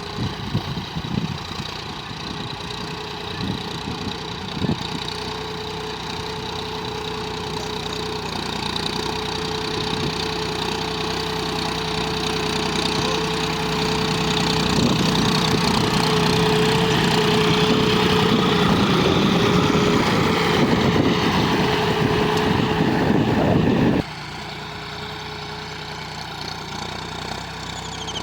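John Deere 5045 tractor's diesel engine running steadily, getting louder over several seconds. About 24 seconds in, the sound drops suddenly to a quieter engine running.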